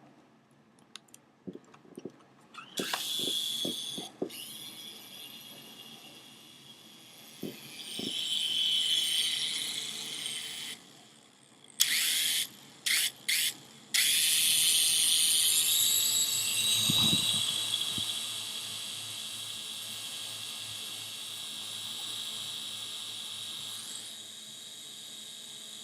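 Small electric motors of a toy RC helicopter whining as the rotors spin up and run, the whine swelling and dropping with the throttle and cutting out abruptly a few times. A few clicks come before the motor starts, and there is a dull thump partway through.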